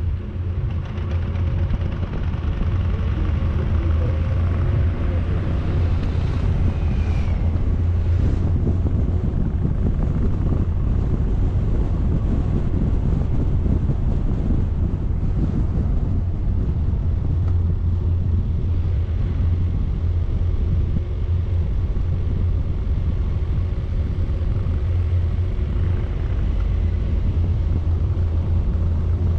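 A vehicle driving steadily up a mountain road: constant engine and road noise with a low rumble, and a faint brief rising whine about six seconds in.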